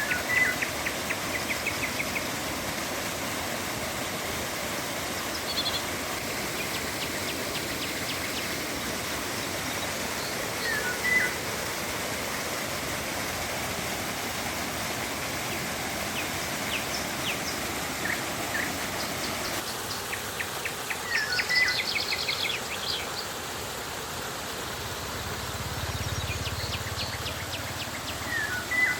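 Steady rush of flowing river water, with birds calling over it again and again: short whistled notes and quick rapid trills. A faint low drone joins near the end.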